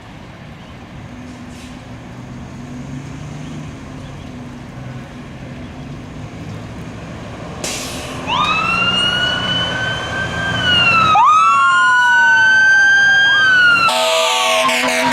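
Fire apparatus diesel engine rumbling as it pulls out. About eight seconds in, electronic sirens start wailing, and a second siren joins a few seconds later. Near the end an E-One fire engine's air horn blasts over the sirens.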